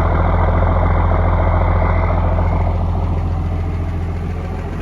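1993 Dodge D350's 5.9 12-valve Cummins turbo-diesel straight-six running steadily, freshly revived after sitting for several years, easing slightly quieter toward the end.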